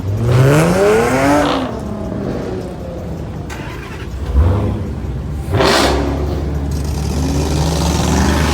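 Car engine revved hard, its pitch climbing then dropping back in the first second and a half, with a second short rev and a sharp burst near the six-second mark. It then settles into a steady low run and starts climbing again near the end.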